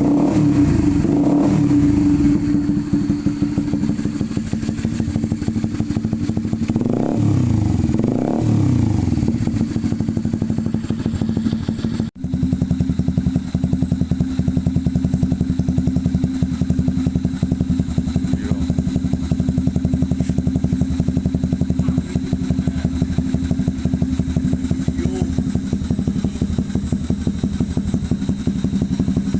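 Honda CB150R's single-cylinder engine through an aftermarket SC Project exhaust, idling and blipped with quick throttle revs several times in the first ten seconds. After a brief cut about twelve seconds in, it idles steadily.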